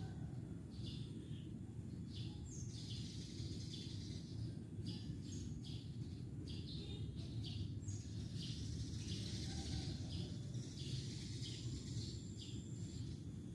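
Birds chirping in many short, repeated calls, over a steady low background rumble.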